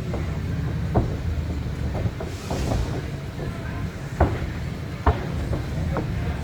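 Several sharp thuds of wrestlers' bodies, feet or strikes hitting a wrestling ring, the loudest about a second in, about four seconds in and about five seconds in, over a steady low rumble.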